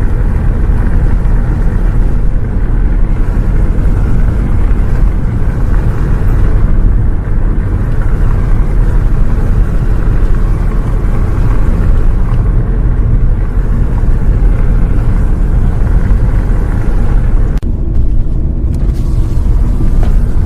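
Loud, steady low rumble of a moving bus, its engine and road noise heard from inside the vehicle.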